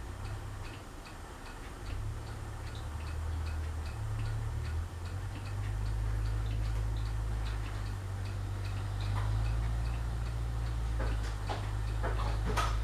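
Craftmade Phoenix ceiling fan running on low with a steady ticking, about three ticks a second, over a low hum; its blades are bent, so it runs out of balance and wobbles. A few louder clicks and knocks come near the end.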